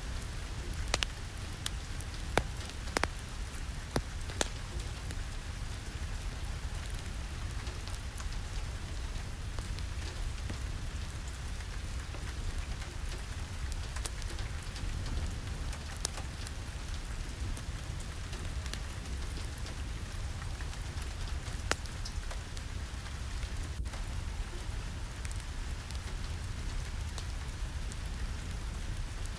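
Steady rain with a deep low rumble underneath and scattered sharp ticks and pops, more frequent in the first few seconds.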